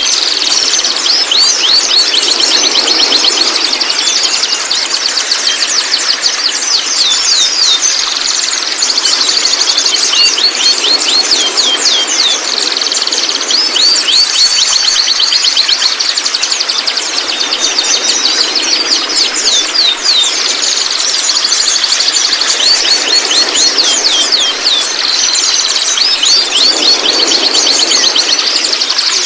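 Young white-rumped shama calling in long runs of short, quick, high chirps, several a second, with brief pauses between runs.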